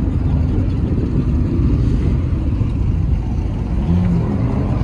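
Car engines running with a steady low rumble, with no single rev standing out.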